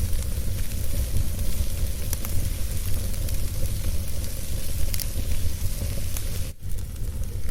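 Wood fire burning in a fireplace: a steady low rumble and hiss with a few scattered sharp crackles and pops. The sound dips out briefly near the end.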